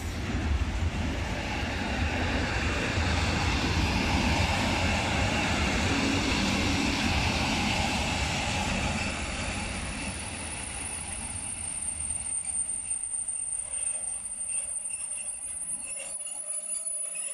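Intermodal freight train of container and swap-body wagons rolling past close by, its wheels rumbling on the rails. About halfway through the rumble drops as the train slows, and a high, steady wheel squeal sets in, with scattered clanks near the end.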